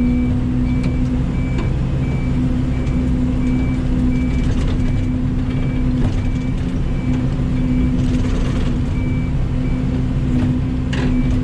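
Mini excavator running steadily under load, its engine and hydraulics holding a constant drone as it pushes dirt, with a high beeping alarm repeating about twice a second. A couple of short knocks come near the end.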